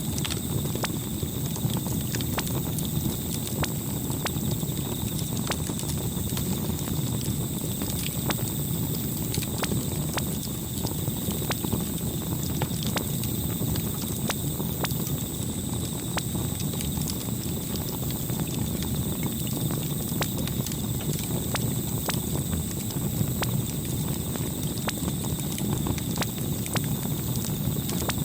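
Campfire burning: scattered sharp crackles and pops over a steady low rumble of flames.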